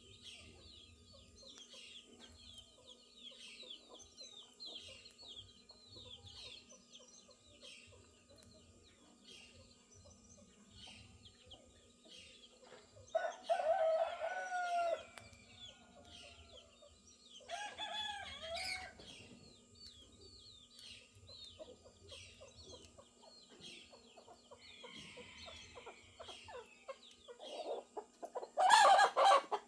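Roosters crowing: two long crows about halfway through, and a louder call near the end, over the continuous chirping of small birds.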